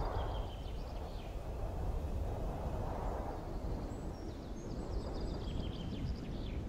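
Wind buffeting the microphone with a steady low rumble, while birds give faint, short, high chirping calls near the start and again in the second half.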